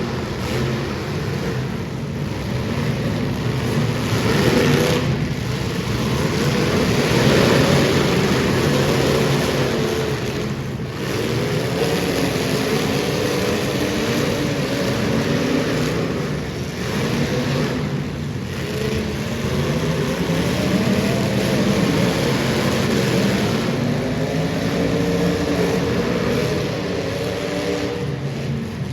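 Several super stock race car engines running hard on a dirt oval, their pitch rising and falling as they accelerate and lift, with a few brief dips in the noise.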